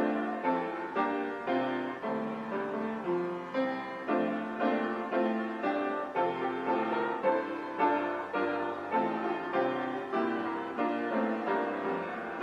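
Piano playing a hymn tune in steady chords, about two struck a second.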